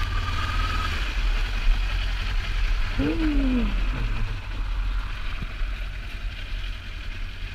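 Kawasaki Ninja 400 parallel-twin engine running with low rumble and wind noise. Its steady note and a higher whine drop away about a second in, leaving a low rumble and hiss. About three seconds in there is a brief rising-then-falling vocal hum.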